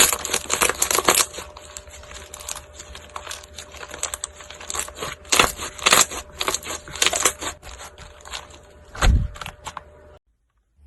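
Slime being squeezed and worked by hand: dense sticky crackling and popping clicks, busiest in the first second, with a low thump near the end before the sound cuts off.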